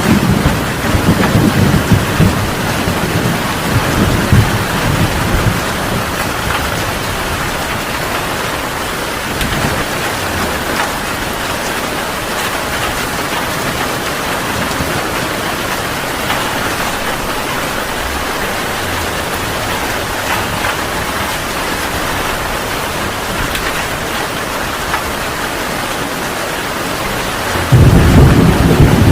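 Heavy rain falling steadily, with thunder rumbling in the first few seconds and fading away, then a loud clap of thunder breaking in suddenly near the end.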